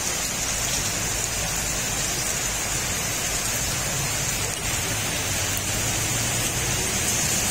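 Heavy rain falling steadily and splashing on wet paving, a constant even hiss.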